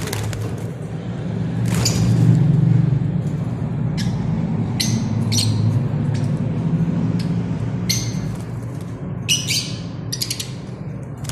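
Lovebirds squawking: short, sharp, high-pitched calls, single or in quick clusters of two or three, every second or two. A steady low hum runs underneath.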